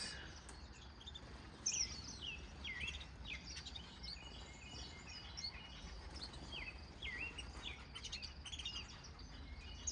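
A flock of small aviary finches chirping and calling, many short, quick notes overlapping, faint.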